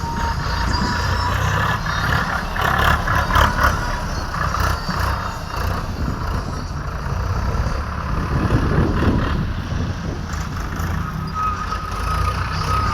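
Swaraj tractor's diesel engine running steadily with a deep rumble, with a thin steady tone near the end.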